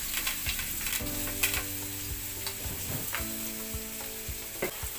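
Chopped onion and garlic sizzling in hot cooking oil in a wok, with sharp clicks and scrapes as the onion is tipped off a plate into the pan.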